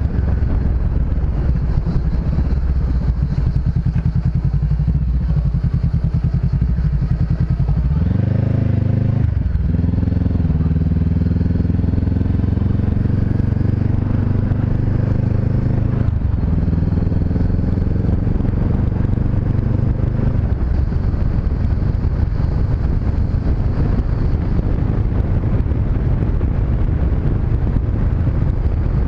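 Honda CB500X parallel-twin motorcycle engine running under way, over wind noise. The engine note shifts about eight seconds in, then holds a steady pitch for about ten seconds before sinking back into the wind noise.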